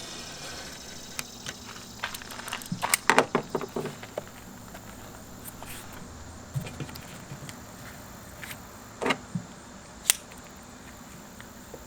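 Knife cutting foam padding along a straight edge: a quick run of scraping clicks and taps about three seconds in, then a few sharp single taps later on.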